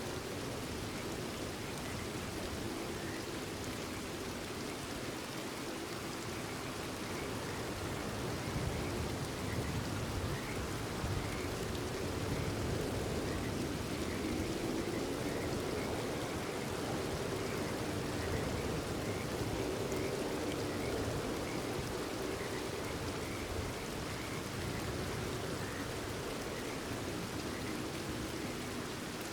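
Steady rain falling, with frogs calling faintly and repeatedly in the background.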